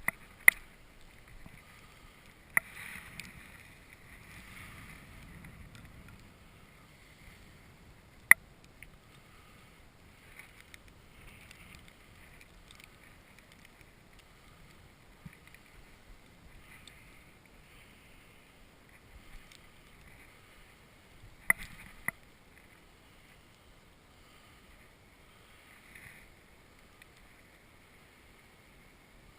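Muffled crunch of boots walking through snow on lake ice, soft and uneven, with a light hiss of wind. A few sharp clicks cut through: one near the start, one about two and a half seconds in, one about eight seconds in, and two close together about three-quarters of the way through.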